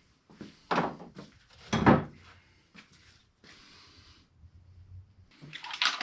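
Heavy clunks and knocks from the wrecked LS V8 as it is turned over on the engine stand, broken internals catching and hitting inside: two loud knocks in the first two seconds, softer scraping after, and another cluster of knocks near the end.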